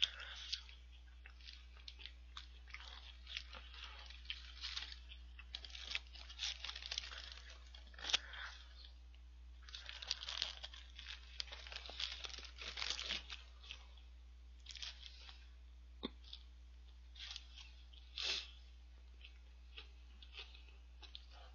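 Close-up eating of a Lotteria shrimp burger: bites into the fried shrimp patty and bun and chewing, with irregular crunches and crackles, busiest in the middle, and the paper wrapper crinkling in the hands.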